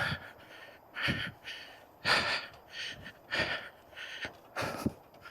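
A person breathing hard while riding over rough ground: short, noisy breaths come about once a second.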